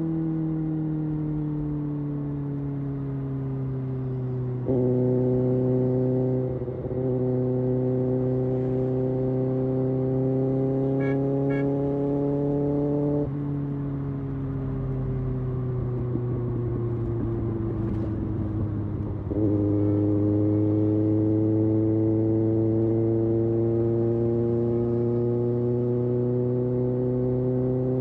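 Kawasaki Ninja ZX-6R inline-four engine and exhaust under changing throttle. The revs fall off, then jump up sharply about five seconds in. There is a brief gear-change dip soon after, then the revs climb slowly, ease off past the middle, and jump up again about two-thirds of the way through before climbing gradually.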